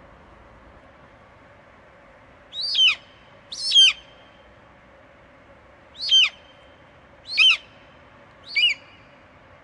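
An eagle screeching: five short cries, each falling sharply in pitch, spaced one to two and a half seconds apart.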